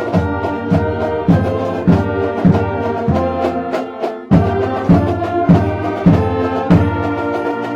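High school marching band playing a Christmas carol: full brass chords over a steady drum beat, a hit a little under twice a second.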